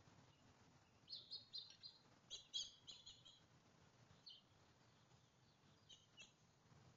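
Small songbirds chirping faintly: a quick run of short, high chirps about a second in, then a few scattered single chirps.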